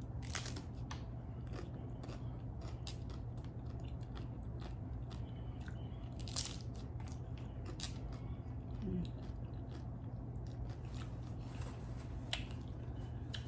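Close-miked chewing of a crunchy hard-shell taco: a run of crisp crunches, with louder bites about halfway through and near the end, over a steady low hum.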